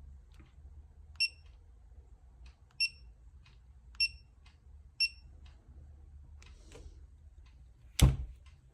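Snap-on torque wrench signalling four times with short, high beeps about a second apart, each marking the set torque reached on a bolt of the engine being rebuilt. Near the end comes a single loud metallic knock.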